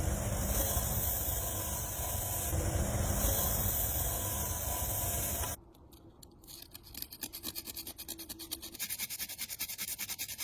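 A loud, steady rushing noise starts abruptly and cuts off after about five and a half seconds. It is followed by rapid back-and-forth scraping, many strokes a second and growing louder, typical of rust being scrubbed or sanded off the metal of a tile cutter.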